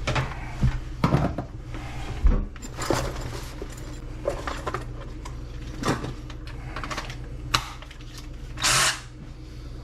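Plumbing work on drain and vent pipe: scattered knocks, clicks and rubbing as tools and pipe parts are handled, over a steady low hum. A short hiss-like burst comes near the end.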